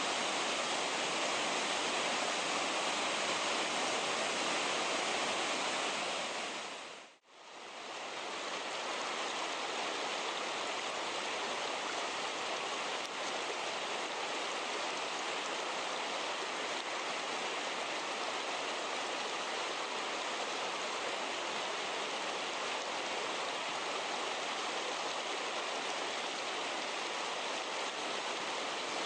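Steady rush of mountain-stream water, fading out and back in about seven seconds in.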